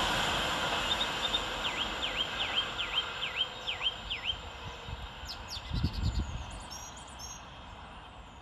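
A Class 390 Pendolino electric train running away into the distance, its rumble fading down over the first half. A bird sings about seven quick swooping notes one after another, with higher chirps after, and there is a brief low rumble about six seconds in.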